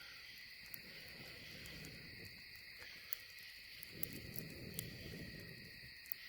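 Crickets or other night insects chirring steadily in a continuous chorus, with scattered sharp clicks and a soft low rustle about four seconds in.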